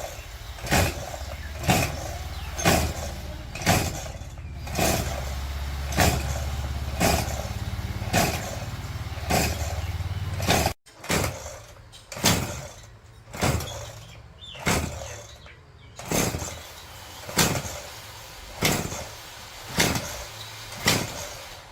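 Sharp knocks repeating about once a second, with a low steady hum under them in the first half. The sound drops out briefly about eleven seconds in, then the knocks carry on a little more slowly.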